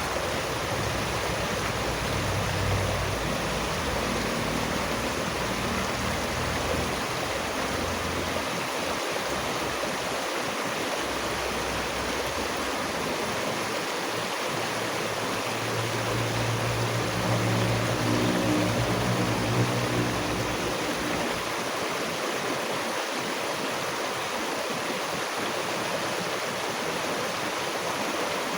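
Water flowing in a stream, a steady rush. A low drone comes in twice for a few seconds, louder the second time.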